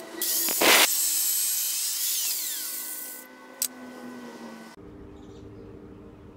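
A small high-speed power tool working iron parts, whirring loudly for about three seconds and then winding down with a falling pitch. After an abrupt cut, a steady low hum takes over.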